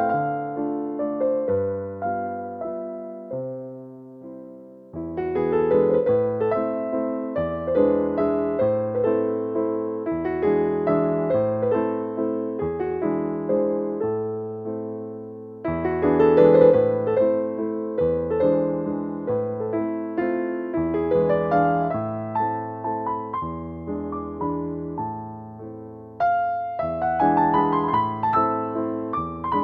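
Piano music: a gentle melody of struck notes that decay between phrases, with short lulls around 4, 15 and 26 seconds in before the next phrase begins.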